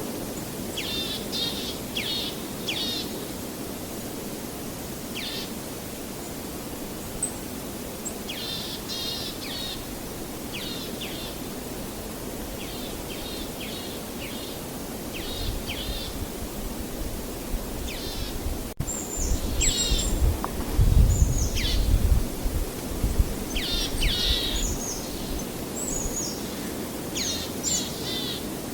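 Songbirds chirping in short, repeated high phrases over a steady low rushing noise. About two-thirds of the way in, a low rumble swells and is the loudest sound for several seconds.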